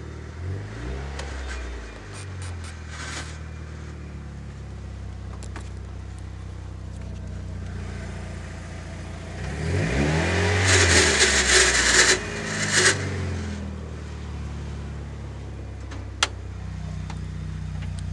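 Mitsubishi Eclipse (DSM) engine idling, blipped briefly about a second in and revved up and back down about ten seconds in. A loud noisy rasp rides over the rev, the strange noise the owner is showing. A single sharp click comes near the end.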